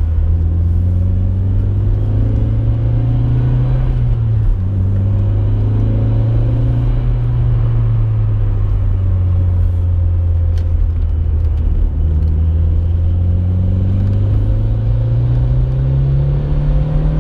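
Mitsubishi Lancer Evolution IX's turbocharged four-cylinder engine heard inside the cabin, pulling at moderate revs. The revs climb, drop briefly about four seconds in, sink slowly through the middle, then climb again near the end.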